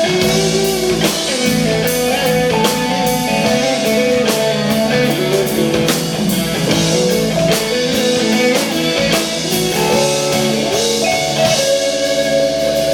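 Instrumental band music led by guitar, with a steady drum-kit beat.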